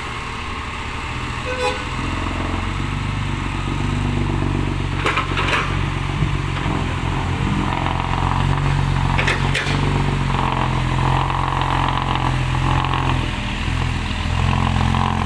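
Heavy diesel engine running steadily, getting louder about two seconds in, with a few short knocks along the way.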